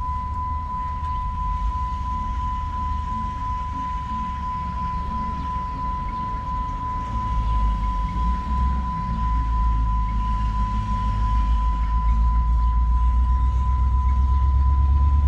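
Steady low rumble of a car's engine and road noise, growing louder about halfway through and again near the end. A single steady high-pitched tone sounds throughout.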